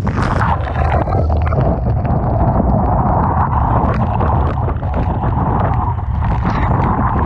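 Gale-force typhoon wind buffeting the microphone with a heavy, steady rumble, over the rushing hiss of waves and sea spray breaking and washing along the shore, with scattered crackles.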